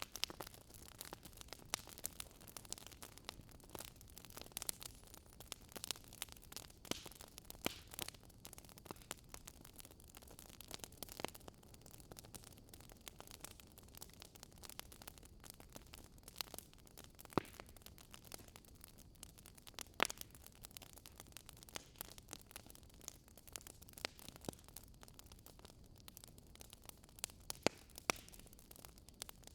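Wood fire crackling: irregular sharp pops and snaps of burning wood over a faint steady hiss.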